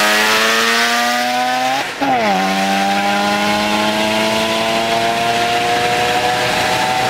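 Car engine at full throttle accelerating hard, its pitch climbing steadily, dropping sharply at an upshift about two seconds in, then climbing again more slowly in the next gear.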